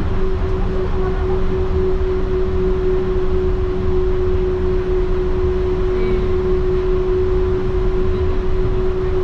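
Running sound inside a Yurikamome rubber-tyred automated guideway train on the move: a steady low rumble with a constant hum held at one pitch.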